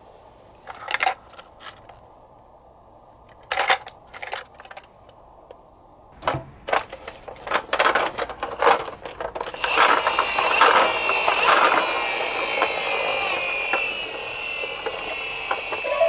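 A toy garbage truck and cardboard box being handled: separate clicks and knocks of plastic and cardboard for about ten seconds. Then a continuous scratchy, rattling noise to the end.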